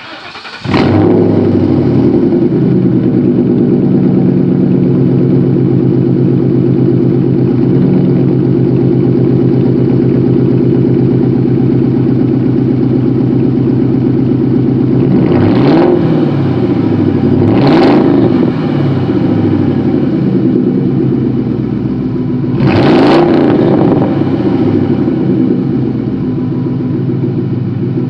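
Ford Mustang GT V8 cold-started after sitting a day or two: it cranks briefly, catches within a second and settles into a loud, steady fast idle. It is blipped briefly three times, around a quarter, a third and four-fifths of the way through.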